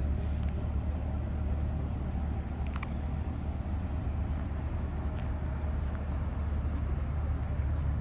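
2020 Corvette Stingray's 6.2-litre LT2 V8 idling through its Z51 performance exhaust: a steady low rumble, with a single sharp click about three seconds in.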